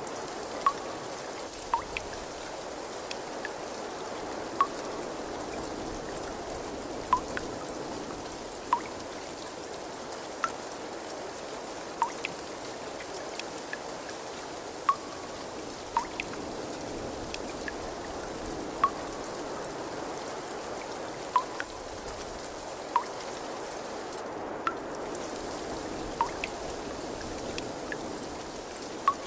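Steady trickling water, with single water drops plinking clearly every second or two.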